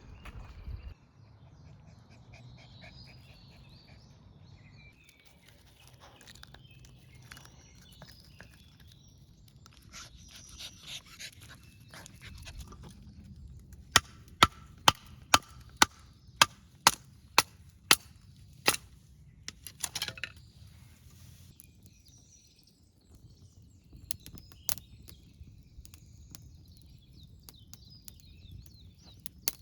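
A run of about ten sharp, evenly spaced knocks, about two a second, loud against a quiet outdoor background, with a few more near the end. Birds chirp faintly throughout.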